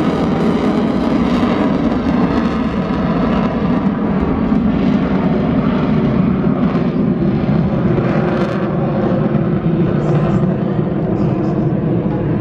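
Propeller aircraft engine running steadily and loud, as a plane moves slowly past.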